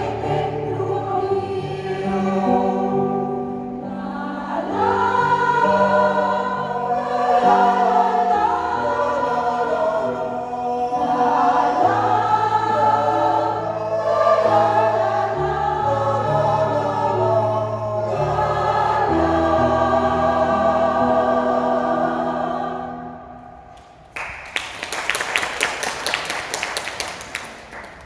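A senior mixed choir singing sustained chords over a low held bass line; the song fades out about 23 seconds in and is followed by about four seconds of applause.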